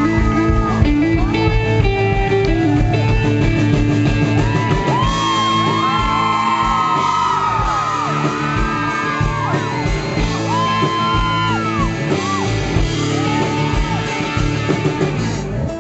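Live country-rock band playing loud in a big hall, guitars and drums driving a steady beat, with crowd yells and whoops over it.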